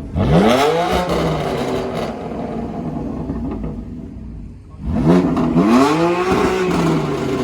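A car engine revved hard in free-rev blips: one sharp rise and fall right at the start, then two quick revs in a row about five seconds in.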